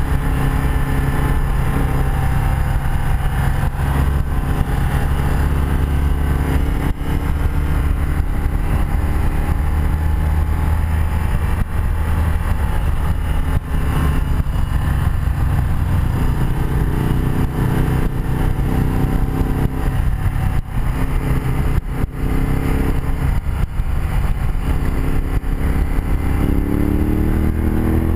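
A 1984 BMW R100RS's air-cooled boxer twin running at road speed, heard from the rider's chest-mounted camera over steady wind rush. The engine pitch rises near the end as the bike accelerates.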